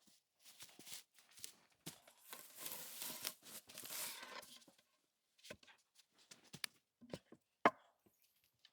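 Faint handling of branches and wood: a couple of seconds of rustling and scraping, then scattered knocks and snaps, the sharpest one near the end.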